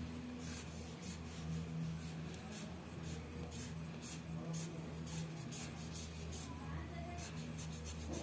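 Drawing strokes on paper: repeated short scratching strokes, a stroke or two a second, over a steady low hum.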